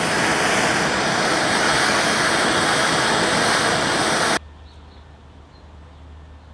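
Gas torch flame hissing steadily while heating a knife guard for silver soldering, cutting off abruptly about four seconds in; a faint low hum remains after.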